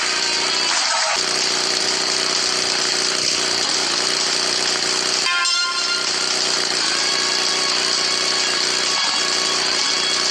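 Motorcycle engine running steadily under load, with short dips in its sound about a second in, about five seconds in and about nine seconds in.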